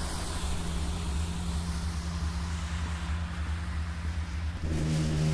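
Low, steady droning hum of the kind reported as the unexplained "strange sounds" heard in the sky. A louder, richer pitched tone joins it about four and a half seconds in.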